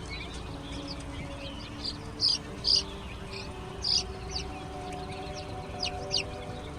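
Baby chicks peeping: short, high, scattered cheeps, a few of them loud, over a steady low hum.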